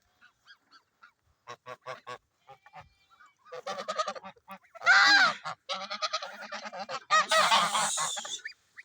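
Domestic geese honking: a few short calls at first, then a dense run of loud honks from a few seconds in. The loudest honk comes about halfway through, with a harsh burst of honking near the end.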